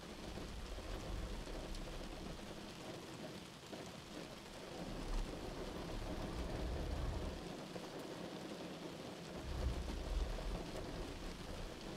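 Steady rain, faint and even, with a low rumble swelling up twice, around five seconds in and again around ten seconds in.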